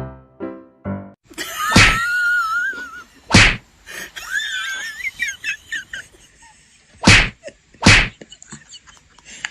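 A few repeated piano notes, then four loud whacks, the last two close together near the end, with a short wavering squeal and scuffling between them.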